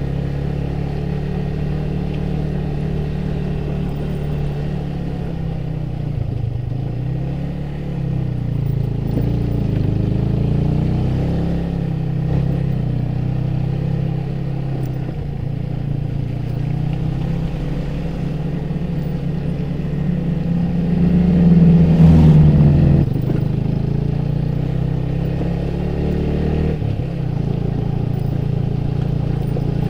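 Motorcycle engine running under way, its note rising and falling with the throttle, with a louder stretch about two-thirds of the way through.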